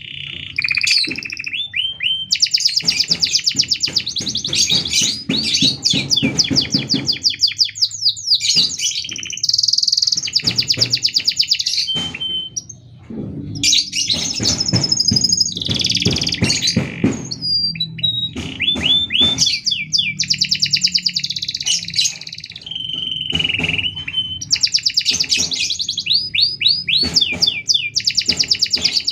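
Domestic canary singing a long, nearly unbroken song of rapid trills and rolling phrases with very short pauses, typical of a canary in full song ("gacor"). A brief break about twelve seconds in.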